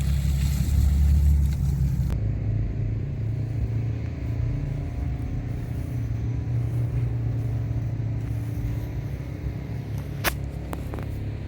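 Engine running steadily with a low rumble, with one sharp click about ten seconds in.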